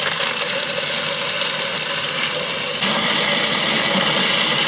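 Water running hard from a tap into a container to soak whetstones, a steady gushing hiss whose tone shifts about three seconds in as the container fills.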